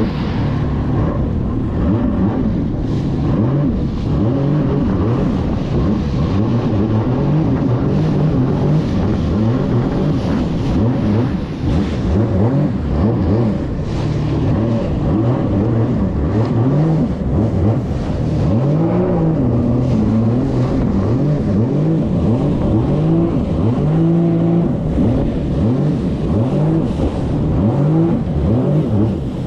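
1800cc jet ski engine running hard, its pitch rising and falling again and again as the throttle is opened and eased off.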